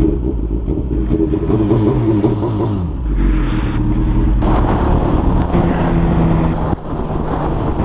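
Suzuki GSX-R1000 inline-four engine under hard acceleration, its pitch climbing and dropping through gear changes, with pops from the exhaust as the throttle closes.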